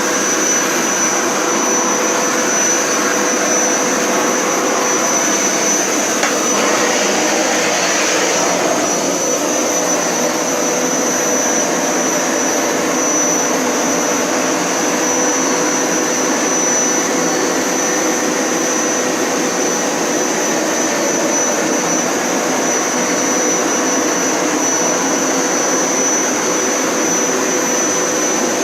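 Hoover Power Scrub Elite Pet upright carpet cleaner running steadily, its motor giving a constant high-pitched whine over a loud rushing hum.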